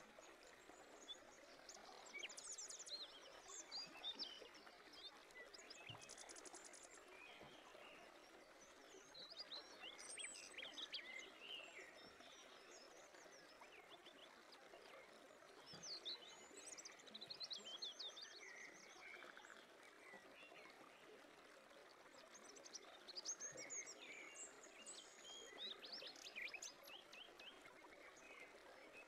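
Faint birds chirping and trilling in scattered clusters over a steady background hiss.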